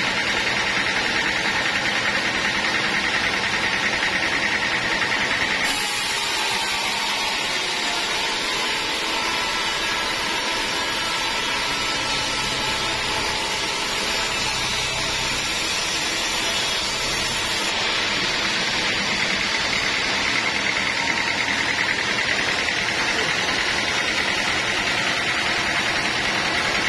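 Sawmill saw running steadily with a loud, even mechanical noise. Its sound changes between about six and eighteen seconds in, with more high hiss, then goes back to how it was.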